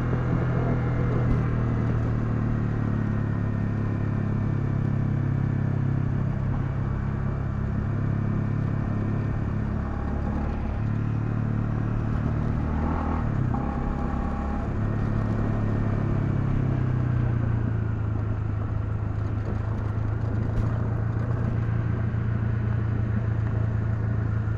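Honda CL250's single-cylinder engine running steadily while riding, its note dipping and shifting briefly about halfway through before settling back to a steady pitch.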